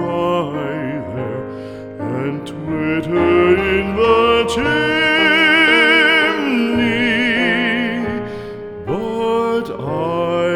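Background music: a slow song with one voice singing over soft accompaniment. The voice holds a long note with vibrato through the middle.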